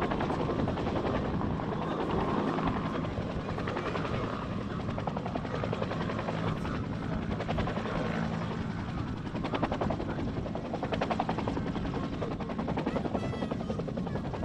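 Helicopter running nearby, its rotor blades making a steady, rapid chop over the turbine noise.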